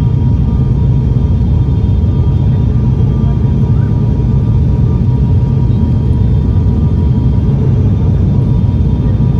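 Cabin noise of an ATR 72 turboprop airliner: a steady, loud low drone from its engines and propellers, heard from inside the cabin, with a faint high hum above it.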